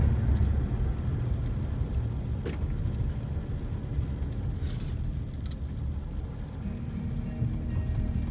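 Car driving, heard from inside the cabin: a steady low road rumble with scattered light clicks.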